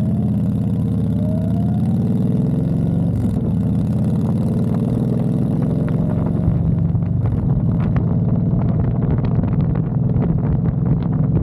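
Honda Fury's V-twin engine running under way, its pitch climbing over the first couple of seconds as the bike accelerates, then holding a steady cruise. From about halfway on, wind buffets and crackles on the microphone.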